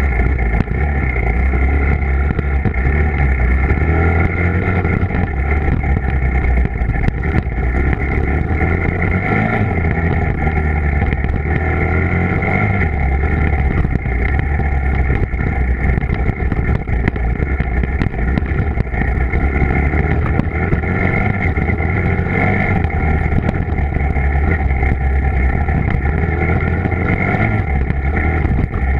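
Dirt bike engine running continuously, its low note shifting up and down.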